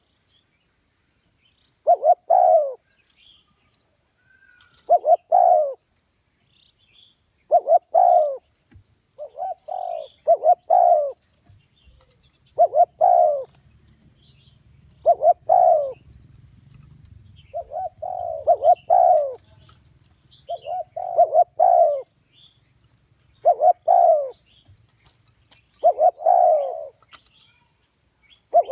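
Spotted dove cooing: short phrases of two or three coos repeated about every two and a half seconds, a decoy dove's call used to lure wild doves to a trap. Faint high chirps from other small birds sound between the phrases.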